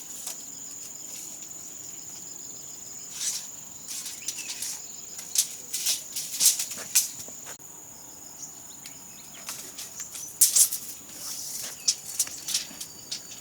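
Insects trilling steadily at a high pitch, with scattered sharp knocks, clicks and scrapes coming and going over it, the strongest about halfway through and again later on.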